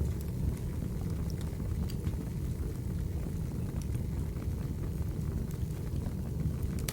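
Wood fire burning: a steady low rumble of flames with scattered small crackles and pops from the burning logs, a cluster of sharper pops near the end.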